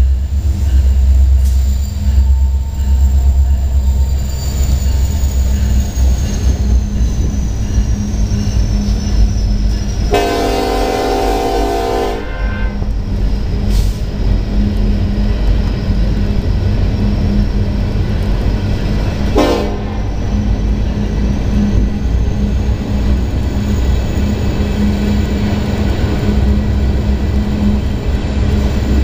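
Freight train of boxcars rolling past with a steady low rumble of wheels on rails. A train horn sounds for about two seconds about ten seconds in, and briefly again near twenty seconds.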